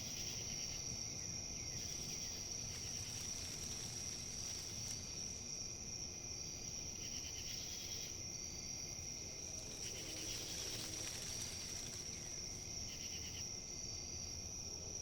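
Outdoor nature ambience: a steady, high-pitched insect trill runs throughout, with short chirping calls coming in every few seconds over a soft rustle of wind in leaves.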